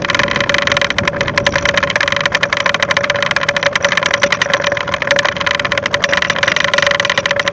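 Boat engine running steadily: a constant hum with a fast, even rattle.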